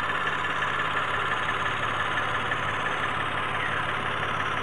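Mitsubishi Mirage engine idling steadily, running again after a cranks-but-won't-start fault that the mechanic traced to busted relays and a spark plug.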